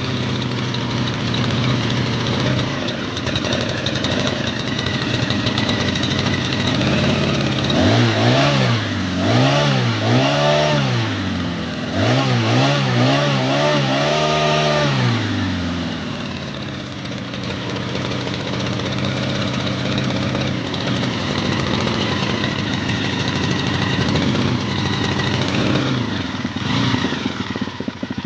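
Small four-stroke water-pump engine fitted with a pitbike centrifugal clutch, running, then revved in several quick blips in the middle before settling back to a steady idle. The revs are the throttle openings meant to make the centrifugal clutch engage the sprocket.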